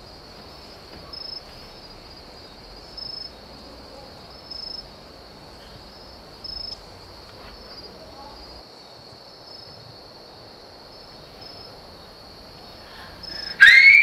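Crickets trilling steadily at a high pitch, with a slightly louder pulse every couple of seconds. Just before the end a loud whistled note rises and falls once.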